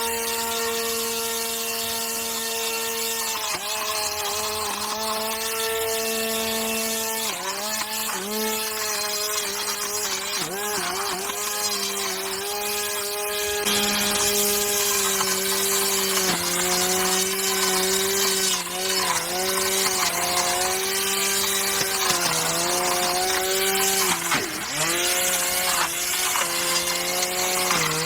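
A homemade string trimmer's 775 DC motor running with a steady electric whine. Its pitch dips briefly several times.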